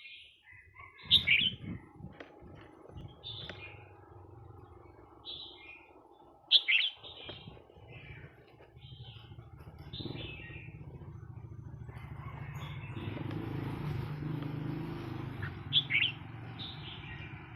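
Red-whiskered bulbul singing short phrases every second or two, some of them loud. A vehicle engine runs low underneath and grows louder in the second half.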